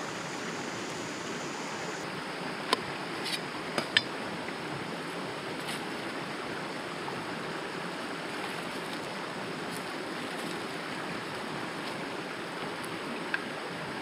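Steady rush of flowing river water, with a few sharp clicks and taps, the loudest about four seconds in.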